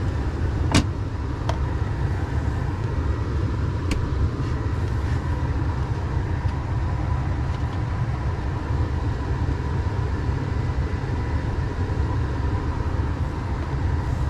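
Semi truck's diesel engine idling, a steady low rumble heard from inside the cab. A few light clicks sound early in the stretch.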